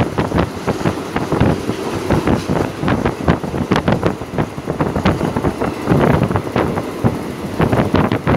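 Passenger train carriage running along the line, heard through an open window: a dense, irregular clatter and rattle of wheels and carriage, with wind buffeting the microphone.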